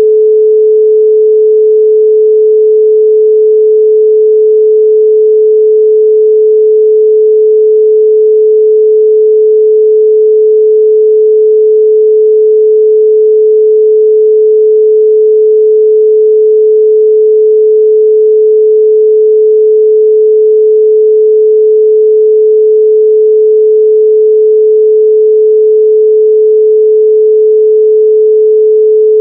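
A steady, loud 432 Hz pure sine tone, one unwavering pitch with no overtones.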